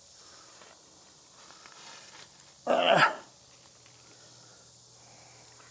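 Faint, steady hum of distant highway traffic. About three seconds in comes one short, loud vocal sound, half a second long.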